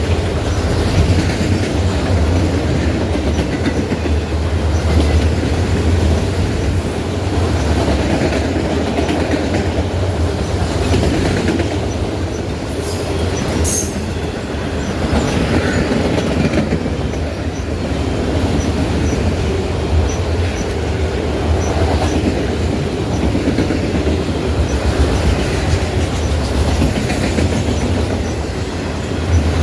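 Train cars rolling past with a steady low rumble and the clickety-clack of wheels over the rail joints. A brief high screech from the wheels comes about halfway through.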